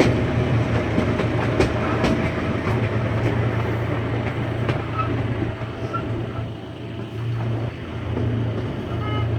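A park ride train running along its track: a steady rumble with light rail clatter. A horn starts to sound right at the end.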